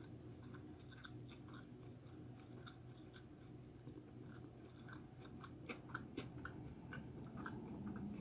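Quiet close-up chewing of vegan sushi rolls filled with crunchy raw vegetables, a run of soft wet mouth clicks that comes thicker and a little louder about five seconds in, over a low steady hum.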